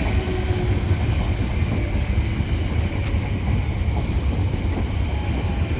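Electric multiple-unit passenger train moving on the tracks, with a steady low rumble of wheels on rail.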